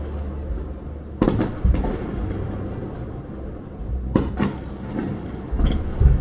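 Fireworks going off in a series of sharp bangs, about seven in six seconds, over music playing with a steady low bass.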